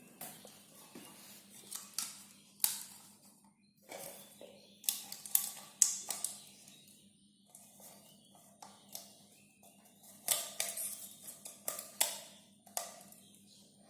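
Plastic water bottle being handled, giving irregular sharp clicks and brief crinkles over a faint steady hum.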